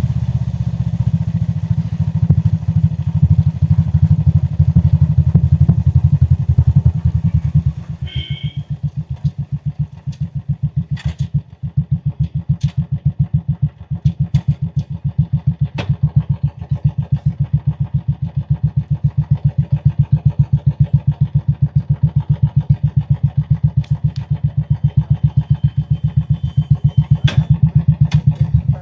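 Royal Enfield Classic 350's single-cylinder engine thumping through its exhaust on the move. About eight seconds in the throttle closes and the sound drops to a slower beat of separate thumps, which grows louder again later on. A short high beep sounds about eight seconds in.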